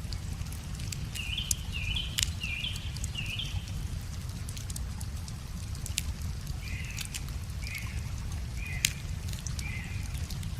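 Wood fire crackling with scattered sharp pops over a steady low rumble. A bird gives four short calls in quick succession about a second in, then four slightly lower calls in the second half.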